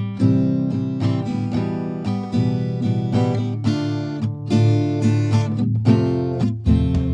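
Background music: acoustic guitar, strummed and plucked chords.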